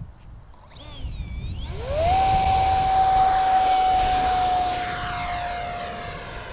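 70 mm electric ducted fan of a 6S-powered Sky Sword RC jet spooling up to full throttle: a whine rises sharply about two seconds in, then holds as a loud, steady high-pitched whine.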